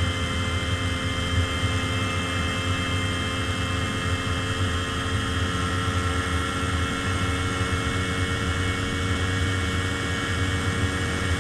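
Minsk motorcycle's single-cylinder two-stroke engine running steadily, a constant hum whose pitch sags very slightly over several seconds.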